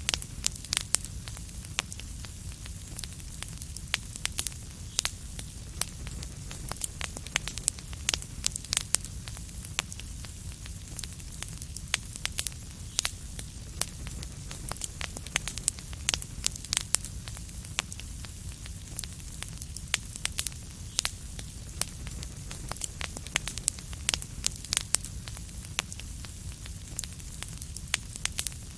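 Fireplace fire burning, with a steady low rumble and a constant stream of irregular sharp crackles and pops from the burning wood.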